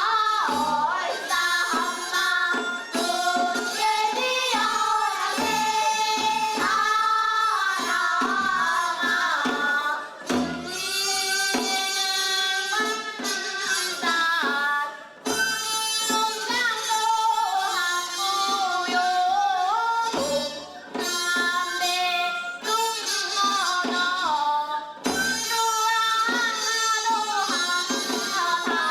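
Women singing a Seodo sori Korean folk song to a drum accompaniment, the drum striking in a regular rhythmic pattern under the melody.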